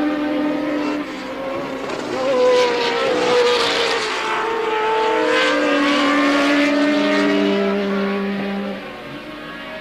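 1983 Formula One cars racing. Their engines pass in a television race broadcast, with several engine notes overlapping and sliding up and down in pitch as the cars accelerate and go by. The sound is loudest in the middle and drops away near the end.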